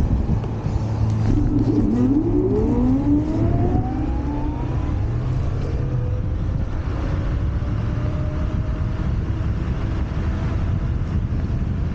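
Wolf Warrior 11+ electric scooter riding at speed, with wind rushing over the microphone. About two seconds in, the hub motors' whine rises in pitch as the scooter accelerates, then settles into a steadier, fainter whine.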